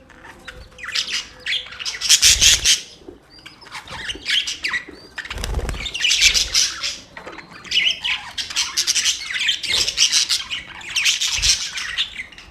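Budgerigars chattering and chirping in fast, scratchy warbling bouts of a second or two, over and over, with short pauses between. A few low thumps come through about two, five and eleven seconds in.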